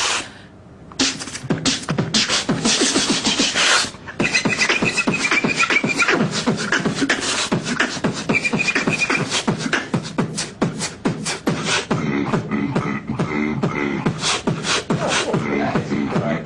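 Human beatboxing: a fast, dense run of vocal drum sounds and hisses starting about a second in. A high held tone weaves in twice, and a low pitched bass line runs under the beat in the last few seconds.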